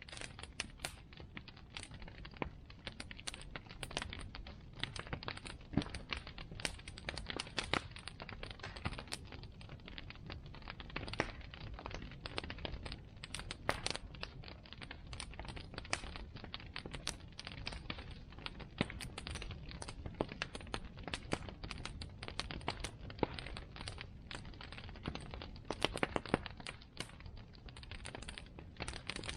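Bonfire burning with a steady low rumble of flame and dense, irregular crackling and popping of the burning wood.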